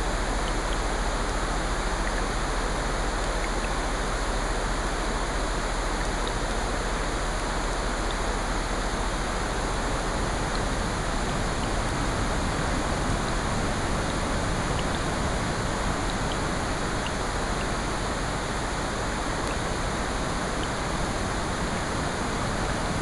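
A steady, even blend of rain and ocean surf, with faint scattered ticks that may be fireplace crackle.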